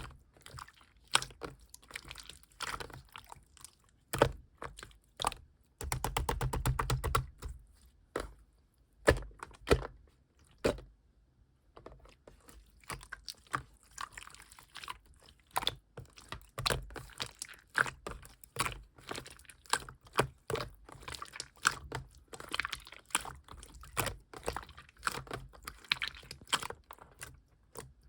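Clear slime being poked, pressed and stretched by hand, giving a run of small sticky clicks and pops, with a dense burst of rapid clicking about six seconds in.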